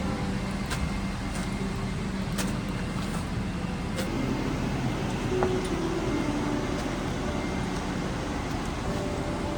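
Boeing 777-300ER cabin ambience at the gate during boarding: a steady rush of cabin air with a low hum, and a few faint clicks.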